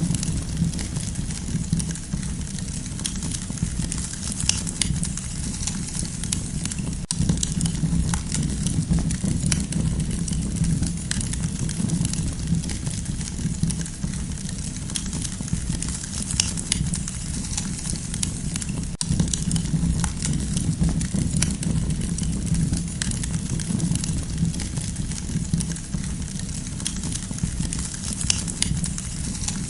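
Campfire burning and crackling steadily, with frequent sharp pops and snaps over a low, even rumble of the flames.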